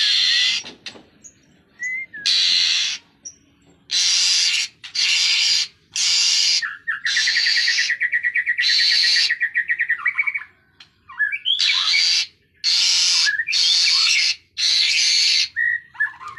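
Asian pied starling (jalak suren) calling: a series of harsh, rasping screeches, each about half a second to a second long with short pauses between, mixed with brief whistled notes. Midway a fast rattling trill runs for about three seconds.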